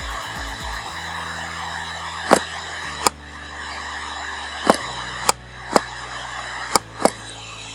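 Loud, sharp computer mouse-button clicks, about seven of them at uneven intervals, over a steady hum and hiss from the microphone.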